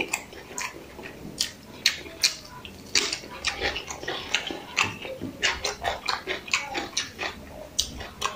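Close-miked mouth sounds of a man eating biryani by hand: chewing with wet lip smacks, mixed with his fingers working the rice on a steel plate. Many short, irregular clicks and smacks follow one another throughout.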